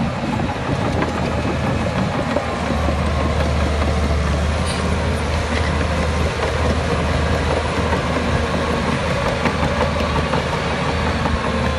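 Heavy diesel earthmoving machinery running steadily: a deep engine drone that grows stronger about two and a half seconds in, with rattling and clatter over it.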